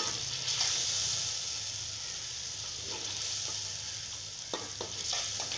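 Mutton and spinach curry sizzling steadily in a metal pan while a steel ladle stirs it. A few short clicks of the ladle against the pan come near the end.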